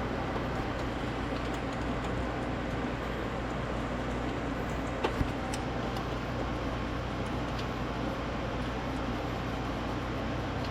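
Nissan Serena's engine idling steadily, with two sharp clicks about halfway through.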